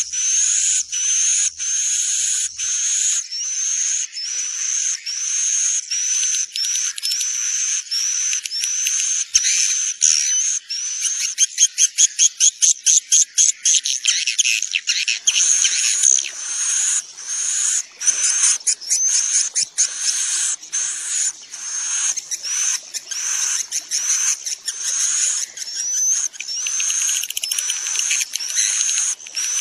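Edible-nest swiftlets calling in a dense chorus of rapid, high chirps and twitters, with short rising notes repeated over and over. A spell of fast, even clicking pulses comes about halfway through. This is a swiftlet lure call of the kind played to draw birds into nesting houses.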